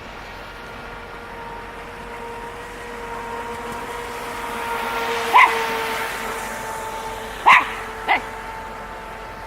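A dog barks three times, once about five seconds in and twice in quick succession near the end. Under the barks is the steady whine of the RC speedboat's electric motor, growing louder for a few seconds and then easing off.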